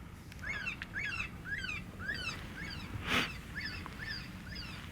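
Electronic predator call playing a distress cry: short, high squealing calls repeated about twice a second, used to lure bobcats and other predators. Wind rumbles low underneath, with a brief rush of noise about three seconds in.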